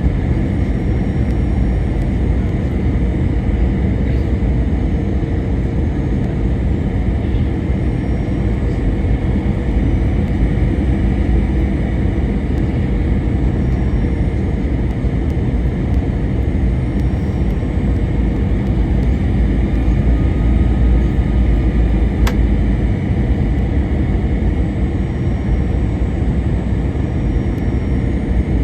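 Steady cabin noise of an Airbus A321-200 in flight: a constant low rumble of engines and airflow heard from inside the cabin, with a faint steady hum running through it. One brief click sounds about 22 seconds in.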